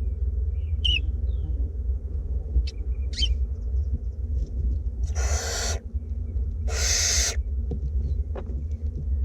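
Barn owlets making two long hissing food-begging calls, each under a second, about a second and a half apart. A steady low hum runs underneath, with a few faint short chirps near the start.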